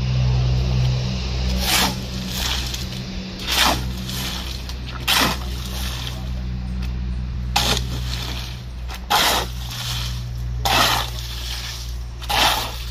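Wet concrete being shovelled and worked by hand, a wet scrape-and-slap about every one to two seconds, over a steady low engine hum.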